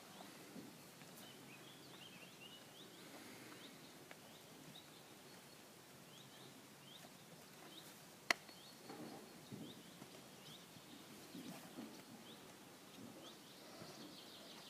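Faint outdoor quiet with small birds chirping now and then, in short falling notes. A single sharp click about eight seconds in.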